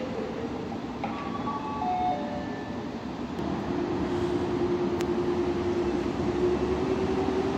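Electric passenger train approaching along the station track. Its running noise grows louder from about halfway through, and a steady low tone comes in at the same time.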